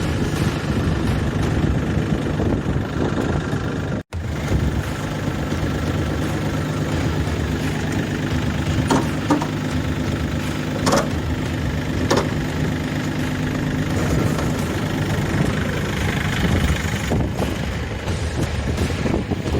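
EG220 tractor's engine running steadily, with a few sharp clicks about halfway through. The sound drops out for an instant about four seconds in.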